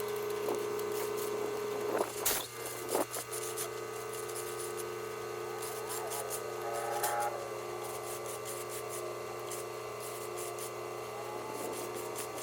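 Concrete mixer truck's engine running steadily, with a couple of sharp knocks about two and three seconds in.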